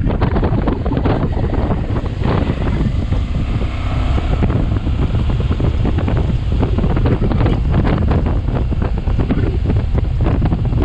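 Wind buffeting the microphone of a camera riding on a moving motorcycle: a loud, gusty rumble that never lets up.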